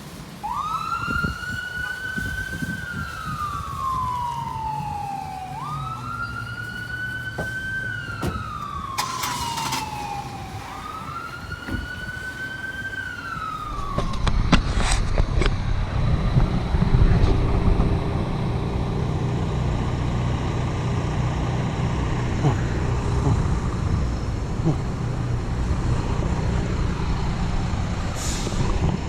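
Emergency vehicle siren on a slow wail, rising and falling in three cycles of about five seconds each. About halfway through it gives way to the steady rumble of a heavy vehicle's engine.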